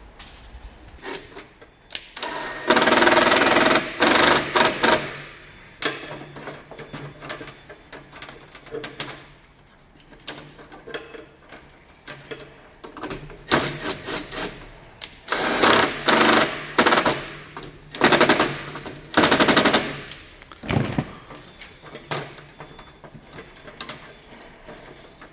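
A power tool runs in several bursts of a few seconds each, with a rapid rattle of repeated impacts, like a hammer drill or impact driver.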